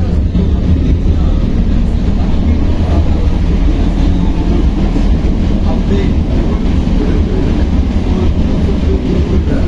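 Belkommunmash BKM-60102 heard from inside while it is under way: a steady, loud low rumble of running noise.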